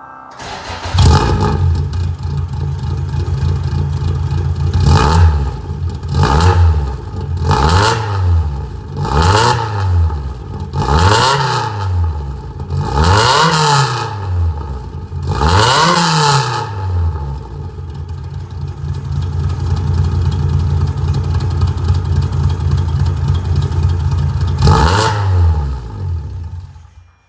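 Toyota AE86's 4A-GE four-cylinder engine through a Kashu aftermarket muffler with its wool packing removed: it starts up about a second in, idles, and is blipped about nine times in quick free revs that rise and fall, then cuts off near the end.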